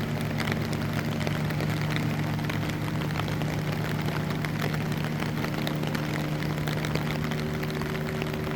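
Steady low hum of an idling engine or motor, over a fine crackling patter of rain.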